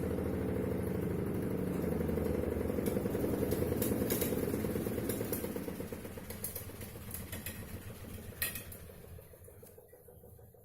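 Twin-tub washing machine's spin-dryer tub running with a steady, pulsing motor hum, then winding down and fading over the last five seconds as the spin cycle ends, with a few light clicks and rattles.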